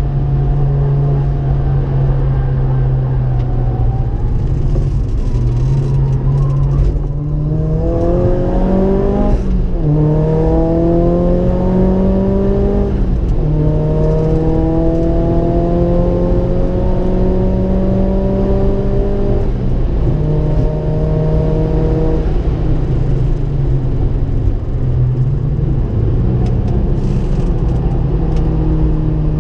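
Ford Focus RS engine heard from inside the car under hard acceleration on track: the revs climb with gear changes about nine and thirteen seconds in, pull steadily on the straight, then drop away near twenty seconds as the driver lifts off.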